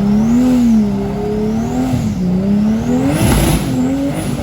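Off-road 4x4's engine revving up and down repeatedly as it is driven through a muddy trail, with a short rush of noise about three seconds in.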